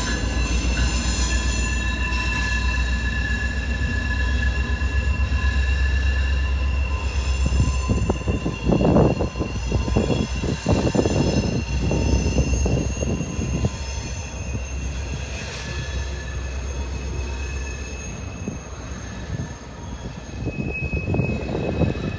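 A train rolling slowly past with a steady high-pitched wheel squeal over a low rumble. Around the middle, a run of clanks comes from the wheels striking the track, and the passing sound eases off toward the end.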